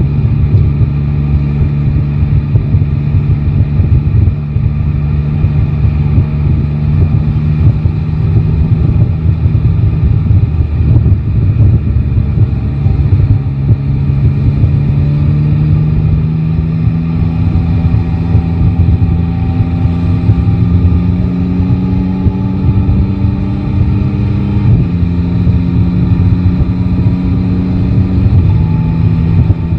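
Yamaha Tracer 9 GT's inline-three engine running while riding: its pitch holds steady at first, climbs slowly through the middle, then drops suddenly twice near the end as it shifts up a gear.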